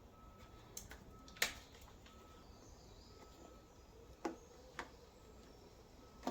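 Faint workshop background with a few short, sharp clicks and taps, the loudest about one and a half seconds in, from hands and tools working on the vehicle's panels.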